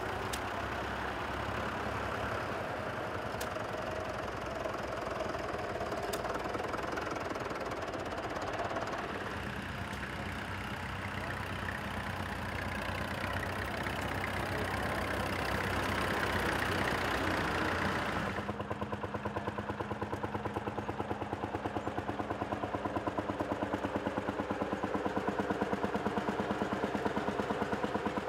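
Vintage tractor engines running. About two-thirds of the way through the sound changes abruptly to one engine close by, chugging with an even, steady beat.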